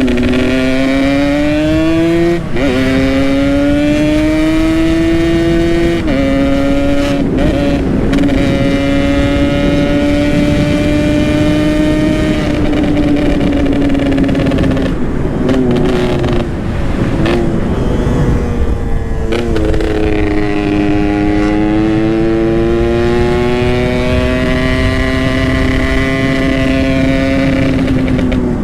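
Yamaha RX King's single-cylinder two-stroke engine with an aftermarket Boban exhaust, under way: its pitch climbs, drops sharply at gear changes about two and six seconds in, holds steady, eases off and wavers around the middle, then climbs and holds again, over a steady rushing noise.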